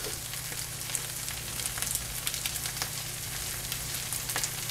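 Stir-fry of rice and vegetables sizzling in a hot pan, a steady hiss with scattered small crackles.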